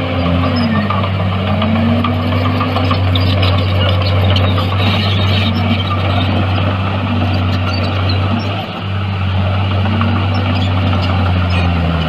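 Diesel engine of a Komatsu D51PX crawler bulldozer working under load, its pitch dipping and recovering several times as it backfills with stone and dirt.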